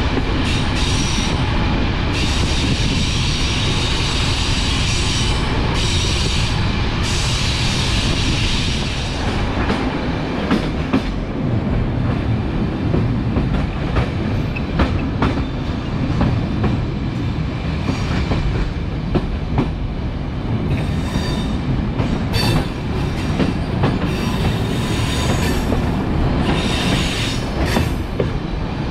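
Passenger train running along the track, heard from an open window: a steady rumble of the coaches with wheels clicking over rail joints. Stretches of high wheel squeal come in the first eight seconds or so, and the clicks grow more frequent after that.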